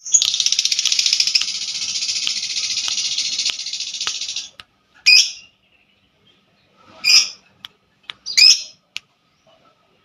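A songbird singing: a loud, rapid, high-pitched trill lasting about four and a half seconds, then three short separate calls.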